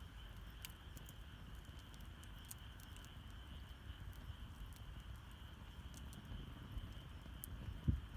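Wood campfire burning with a low steady rumble and scattered sharp crackles and pops, one louder knock near the end. A steady high insect trill runs underneath.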